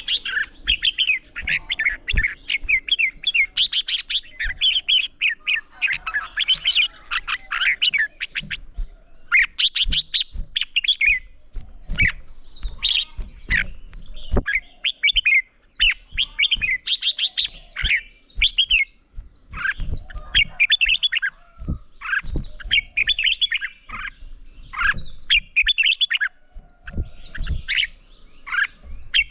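Red-whiskered bulbuls singing in a quick run of short, warbling whistled phrases, one after another with brief pauses, in the heated back-and-forth of competitive song. Short soft knocks sound among the phrases.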